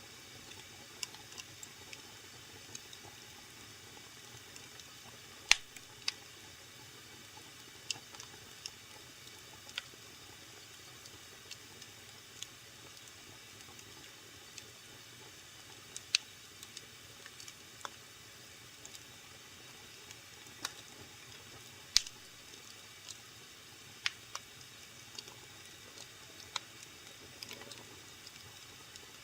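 Wood fire crackling in a fireplace: irregular sharp pops and snaps over a soft steady hiss, the two loudest pops about five seconds in and about seven seconds before the end.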